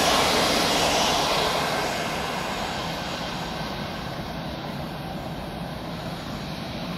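Passenger train of coaches behind an electric locomotive running away along the track, its wheels rolling on the rails. The rolling noise is loudest at the start, fades over the first two or three seconds as the train draws off, and then goes on as a lower steady rumble.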